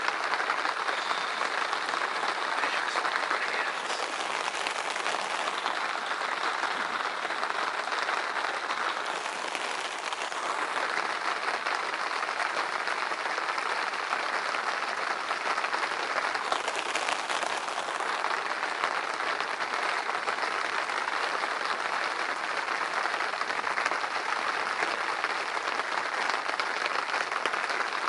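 Heavy rain falling steadily, a dense, even patter that does not let up.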